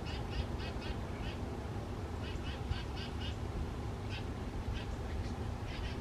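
Bird calls in short runs of quick, high notes, about five a second, broken by pauses, over a steady low rumble of wind on the microphone.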